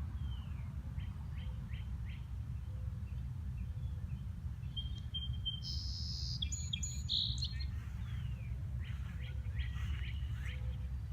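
Birds chirping and singing, with a louder burst of song about halfway through, over a steady low rumble.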